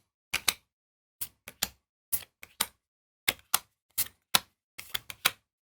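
Trading cards being handled and set down on a table: a run of short, sharp clicks and taps, about two or three a second, often in quick pairs.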